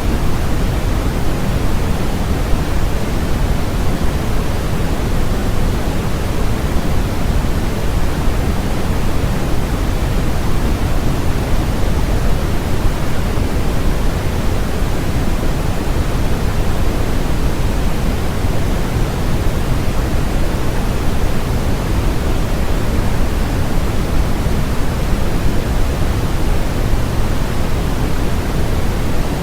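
Steady synthetic white noise: an even, unchanging hiss with no events, heavier in the low end than at the top.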